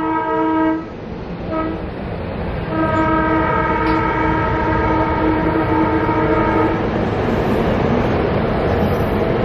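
SEPTA Regional Rail train sounding its multi-tone horn: a blast that ends about a second in, a short toot, then a long blast of about four seconds, followed by the steady rumble of the train rolling past.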